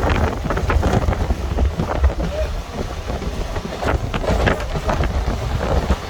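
Wind buffeting the microphone over the low rumble of a moving train.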